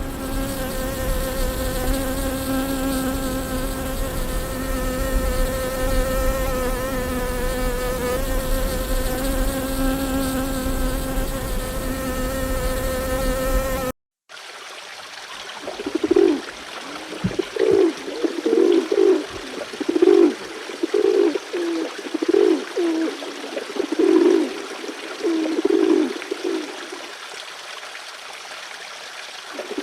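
A flying insect's steady buzzing drone with a slightly wavering pitch for about fourteen seconds, then an abrupt cut. After the cut come a series of short low calls, one or two a second, from an animal.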